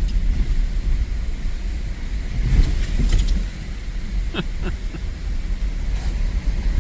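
Pickup truck driving slowly over a rough, bumpy dirt trail: a steady low rumble from the cab, with a few sharp knocks and two short squeaks about halfway through.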